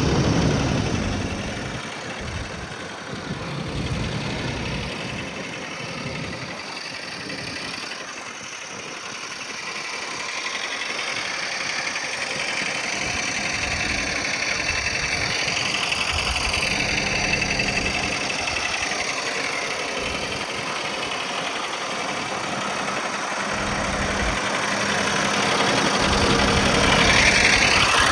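Scania R660's V8 diesel engine idling steadily, its level dipping and rising again over the stretch.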